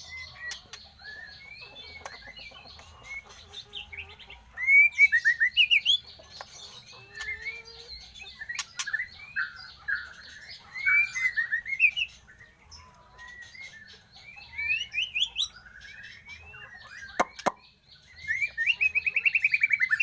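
A young murai batu (white-rumped shama), 52 days old, singing in varied short whistled phrases, chirps and quick trills, with several louder bursts of song and a fast repeated trill near the end. A faint steady high buzz runs underneath.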